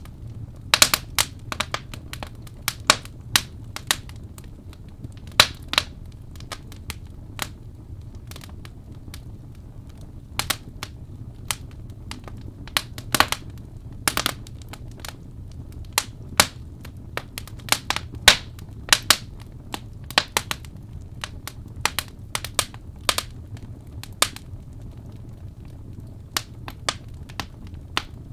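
Wood fire crackling: irregular sharp pops and snaps of uneven loudness over a steady low rumble.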